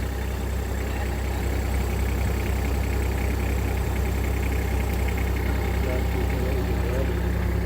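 A vehicle's engine running steadily, with a constant low drone.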